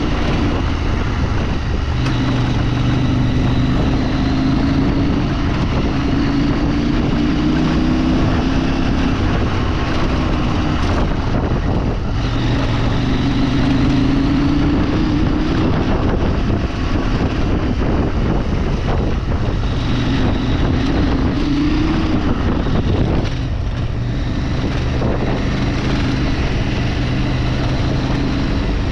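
A vehicle engine running under way, recorded on board. Its pitch climbs and drops back several times as the driver works the throttle and gears, with a brief dip about 23 seconds in.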